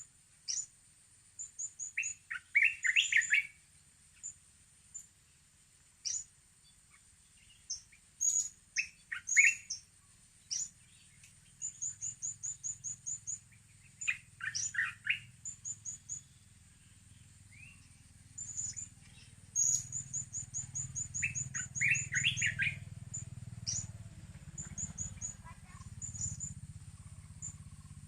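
Small birds calling: fast trains of high, thin ticking notes, about eight a second, mixed with clusters of short down-slurred chirps, over a steady high-pitched hum. A low rumble builds up in the second half.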